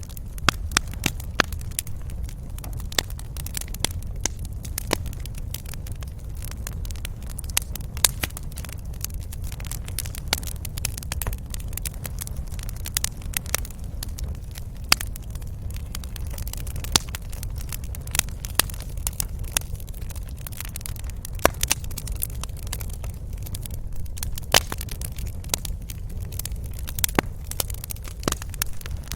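Wood fire crackling: many sharp, irregular pops and snaps over a steady low rumble of the flames.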